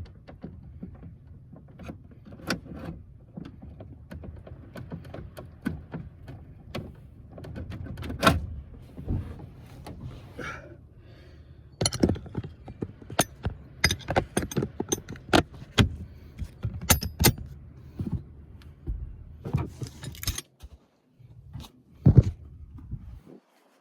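Irregular metallic clicks, clinks and knocks of tools and parts being handled while a choke cable is fitted, over a low steady rumble. The knocks come thickest around the middle and there is one sharp knock near the end.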